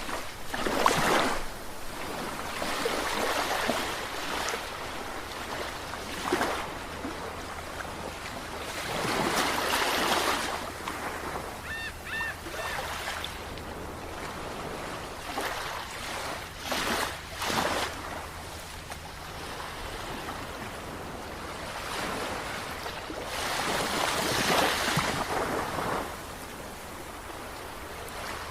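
Sea waves breaking and washing in, swelling in irregular surges every few seconds over a steady hiss of surf.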